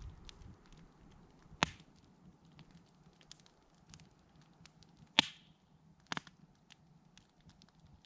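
Wood campfire crackling: scattered small ticks with a few louder pops, the sharpest about a second and a half in and about five seconds in.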